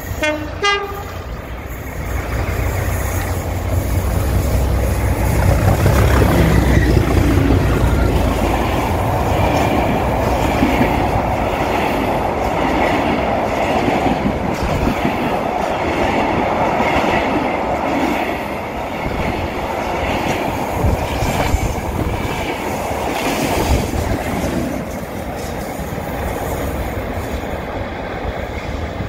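A class 37 diesel locomotive hauling timber wagons runs through: a deep engine rumble builds and peaks as the locomotive passes in the first several seconds, then the wagon wheels clatter steadily over the rail joints as the train rolls by.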